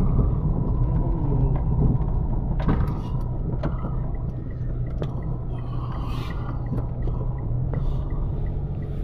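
Mitsubishi Mirage on its road test: a steady low rumble of engine and road noise heard inside the cabin. A few sharp clicks come early on, and faint regular ticking sets in about halfway.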